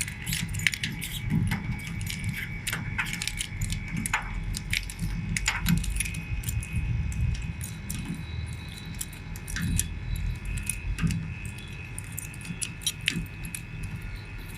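Irregular light metallic clicks and clinks of a tool working the large-pipe service valve on an air conditioner's outdoor unit. Under them is the steady hum of the old Gree inverter unit's compressor, still running during refrigerant pump-down.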